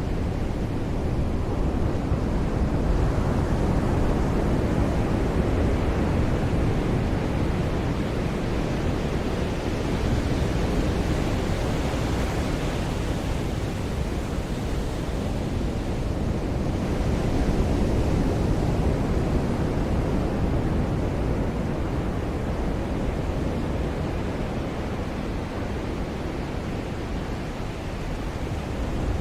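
Ocean surf washing onto a beach in slow swells, a steady rushing noise, with wind on the microphone.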